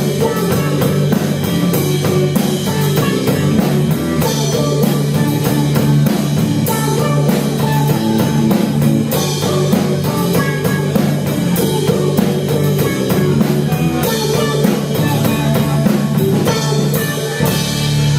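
Live rock band playing an instrumental passage: drum kit and electric guitars over a steady bass line.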